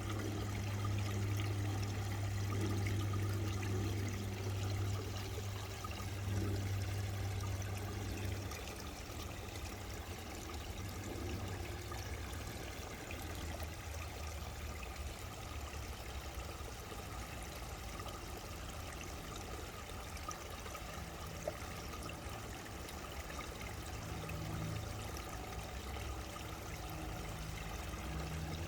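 Babbling brook: water running and splashing steadily. A low rumble sits under it for the first several seconds, then fades.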